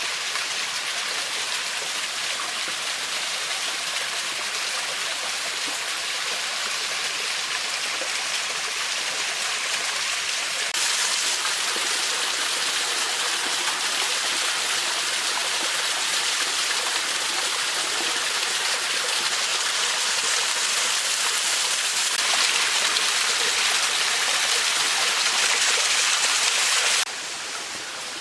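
Flowing mountain stream, a steady rush of water. It gets louder suddenly about eleven seconds in and drops sharply near the end.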